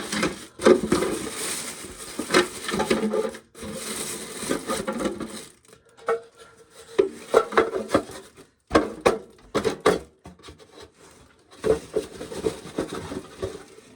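Shelled corn kernels being scooped and poured by hand: rattling, pouring and rustling, broken by irregular knocks and clatter.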